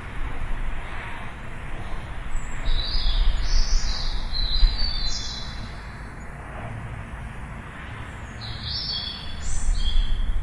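Songbirds chirping in two bursts of quick, high chirps, the first about two and a half seconds in and the second near the end, over a steady low rumble.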